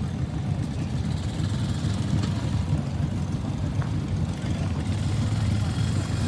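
Garden tractor's small engine running steadily, hauling the weight sled down the track in a tractor pull.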